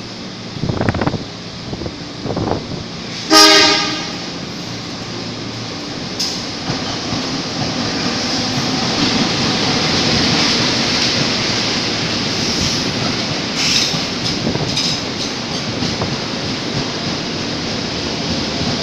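Train sounding a short horn blast, then running past with a steady wheel-and-rail noise that builds and holds.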